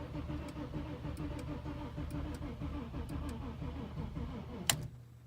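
The starter cranks the Audi B6's 2.7-litre twin-turbo V6 with a steady rhythmic churn, but the engine never catches. The cranking stops with a sharp click near the end. This is a crank-no-start: the owner finds neither spark nor fuel, and the battery voltage sags.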